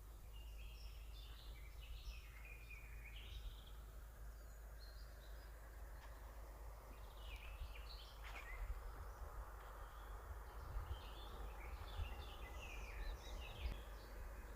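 Forest songbirds singing faintly in three spells of quick, twittering phrases, over a steady low rumble.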